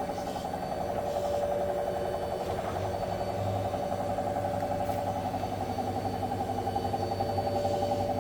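Hoover H Wash 700 washing machine (H7W 412MBCR-80, 12 kg) spinning an empty drum: a steady motor whine that pulses evenly, with the knocking on spin that the owner says doesn't sound right, although the machine is level and its transport bolts are removed.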